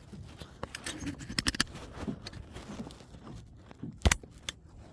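Irregular light clicks and knocks of gear being handled on a kayak, with a quick cluster of clicks about a second and a half in and one loud knock near the end.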